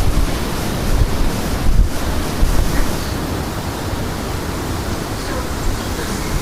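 Strong wind gusting and buffeting the microphone with a low rumble, heaviest in the first two seconds, then settling into a steadier rushing hiss.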